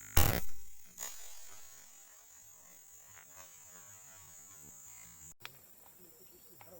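A single loud shot a fraction of a second in, then a fainter knock about a second in. A steady high-pitched hiss runs underneath and cuts off suddenly about five seconds in.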